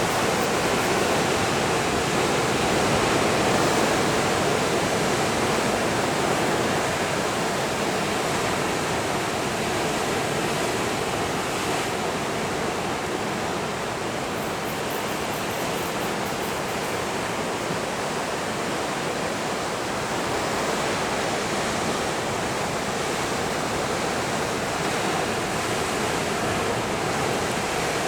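Pacific Ocean surf breaking along the shore, a continuous rush of waves with no separate crashes standing out.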